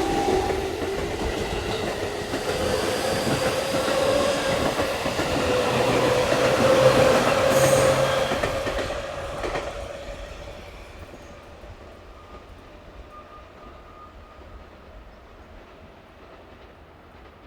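Electric commuter train moving along the platform, with wheels clattering over rail joints and a steady whine. It builds to its loudest about seven seconds in, then fades away as the train moves off.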